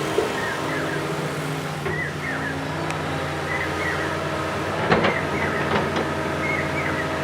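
Backhoe loader's diesel engine running steadily, with a few sharp knocks, the loudest about five seconds in, typical of rock or the bucket striking.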